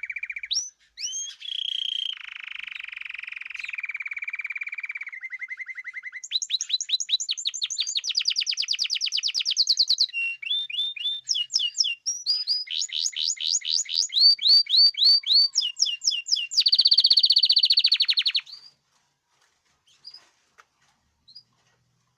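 A caged male songbird singing strongly: one long song built of changing phrases, each a fast trill of repeated notes, some steady and some sweeping up and down. The song stops about three-quarters of the way through, leaving only a few faint ticks.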